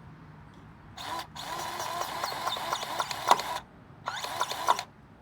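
Battery-powered grease gun pumping grease into a newly replaced grease fitting on a zero-turn mower, its motor whining with a rapid ticking in three trigger pulls: one long run of about two and a half seconds, a short one, and another starting near the end. The fitting is taking grease.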